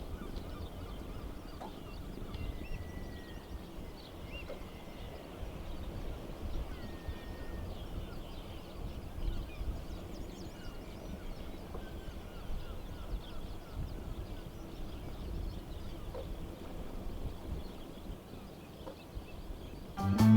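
Gulls calling again and again, many short cries and a few longer drawn-out calls, over a low steady rumble.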